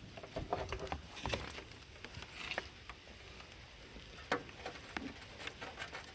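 Faint, scattered clicks and clinks of metal hand tools being handled while sockets are tried on a bolt for size.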